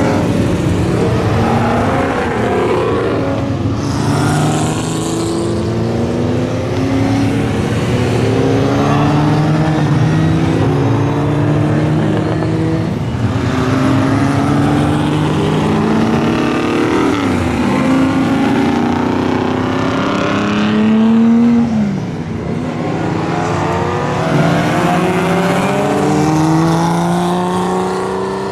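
Engines of several vintage race cars accelerating hard on track, overlapping one another, each rising in pitch and stepping back down through gear changes. The loudest car sweeps past about two-thirds of the way through, its pitch dropping as it goes by.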